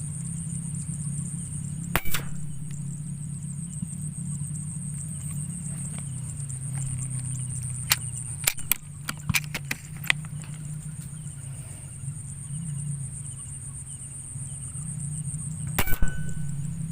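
Air rifle shots: a sharp crack about two seconds in and a louder double crack near the end, with several lighter clicks in between, over a steady high drone of insects.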